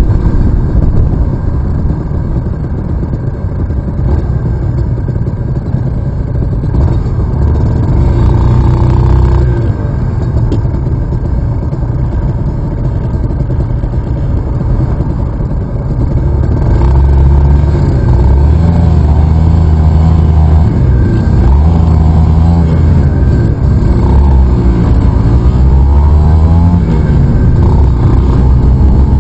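Aprilia RS 125's two-stroke engine heard from on board while riding. The revs climb and drop repeatedly, and it is louder over the second half.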